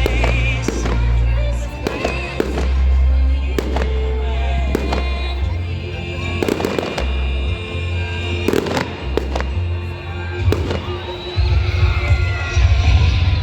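Fireworks going off in repeated bangs and crackles, over music with a heavy bass line. Falling whistles sound near the end.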